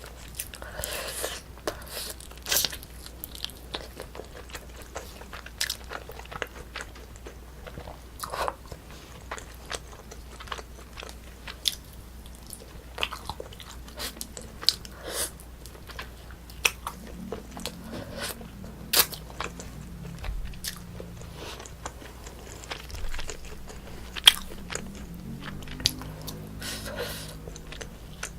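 Close-miked eating of braised spicy chicken with rice: irregular chewing, with wet mouth clicks and smacks every second or so.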